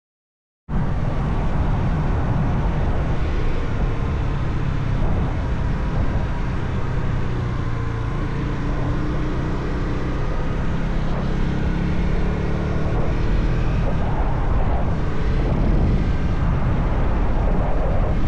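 Motorcycle riding along, heard from the bike: the engine runs with its pitch slowly rising and falling as speed changes, under steady wind and road rush. It cuts in suddenly just under a second in.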